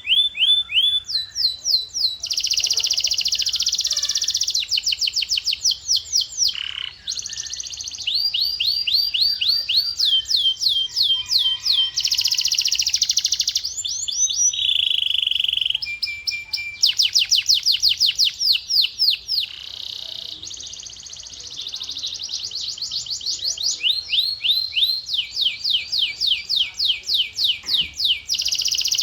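Male canary singing: rapid trills of repeated sweeping notes, the phrases changing every few seconds, with a few short pauses.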